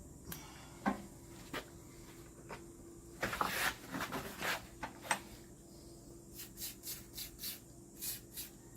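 Light clicks, taps and rubbing from parts and tools being handled during shock absorber assembly, with a few short hissing bursts, over a faint steady hum.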